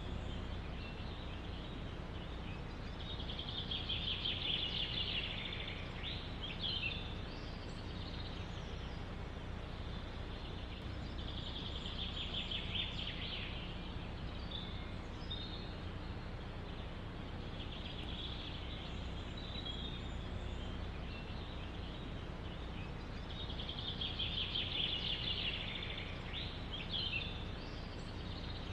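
A songbird sings a buzzy, trilled phrase four times, roughly every six to eight seconds, some ending in quick falling notes. Under it runs a steady low background rush of forest ambience.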